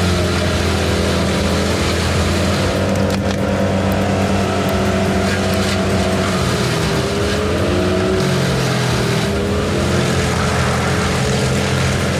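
Heavy machine's engine running steadily, its pitch wavering slightly up and down.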